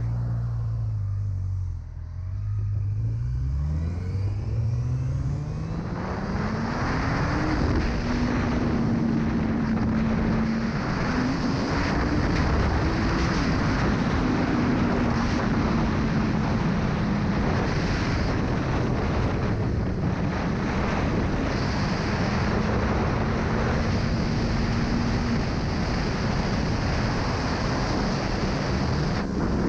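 Honda CB1000R's inline-four engine under hard acceleration on a top-speed run. The note climbs steadily for several seconds and drops at a gear change, climbs again and drops at a second shift, then holds high and steady. Wind rush grows loud as speed builds.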